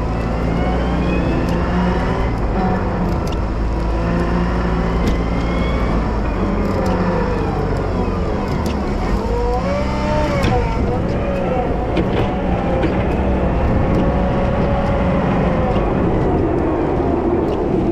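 Wheel loader's diesel engine running steadily while plowing snow, with whines that rise and fall in pitch and scattered sharp clicks and knocks.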